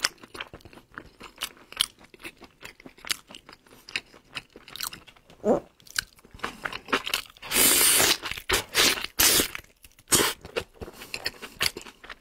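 Close-up chewing and biting of braised pork knuckle meat: many short mouth clicks, with a louder noisy stretch of under a second just past the middle.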